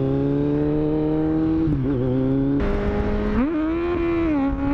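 Kawasaki Z900's inline-four engine pulling under way, its pitch climbing steadily, then dipping and recovering twice as the rider shifts gears. A hiss of wind and road noise widens from about halfway through.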